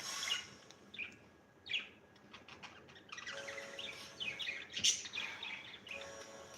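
Budgerigar chirping and warbling: a run of short, quick squeaks and chirps that thickens into a busier chatter from about three seconds in, with one sharp click near the five-second mark.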